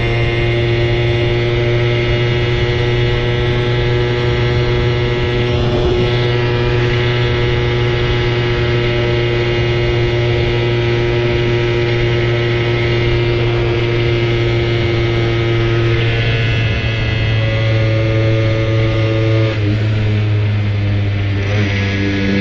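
Simson Habicht moped's 50 cc two-stroke single-cylinder engine running at a steady speed, a constant drone, its pitch shifting a few times in the last several seconds.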